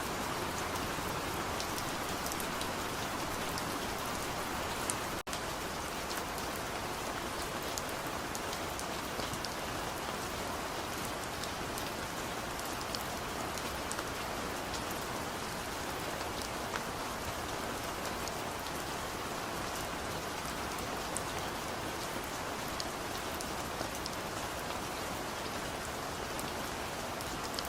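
Steady rain falling, with scattered sharp drop ticks over an even hiss. There is a momentary drop-out about five seconds in.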